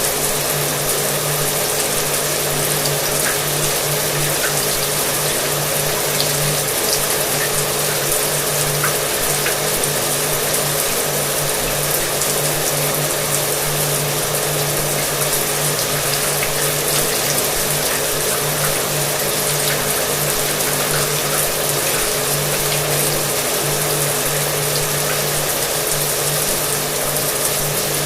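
Shower water spraying steadily together with a hair dryer running, its motor hum held at one steady pitch under the hiss of the water and air.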